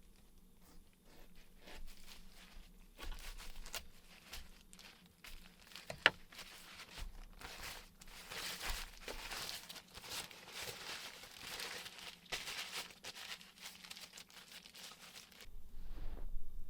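Rustling and crinkling handling noises with scattered small clicks, a sharp click about six seconds in, and denser rustling from about eight to thirteen seconds.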